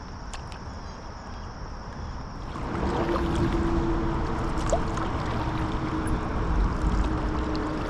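Water sloshing and rushing around a kayak as it is paddled, getting louder about two and a half seconds in, with a faint low steady hum under it. Before that, insects trill steadily.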